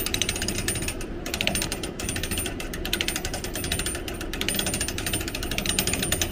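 Hand-cranked pressed-penny machine being turned: its gears and ratchet give a steady, rapid clatter of clicks as the rollers press the penny.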